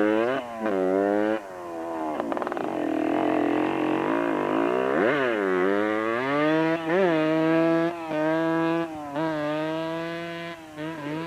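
Motorcycle engine pulling away under throttle: its pitch climbs, drops back at the gear changes and climbs again, then holds steady for several seconds before easing off near the end.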